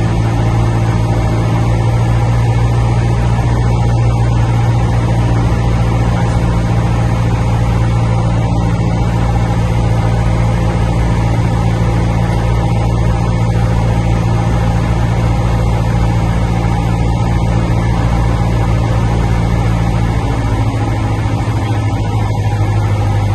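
Cessna 172's piston engine and propeller running with a steady drone, easing slightly in tone about twenty seconds in.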